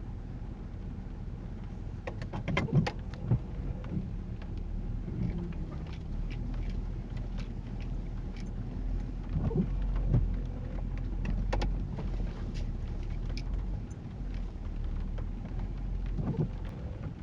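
Ford Crown Victoria police car driving, its V8 and the road making a steady low rumble inside the cabin, with occasional short knocks and clicks.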